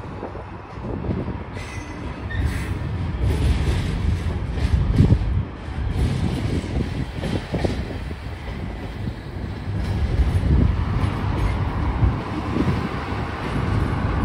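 Container freight train's loaded wagons rolling past with a steady low rumble of wheels on rail, broken by irregular knocks and clanks as the wheels run over the track.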